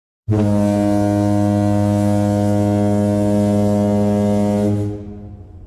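A single long, low horn blast, held at one steady pitch for about four and a half seconds and then fading out.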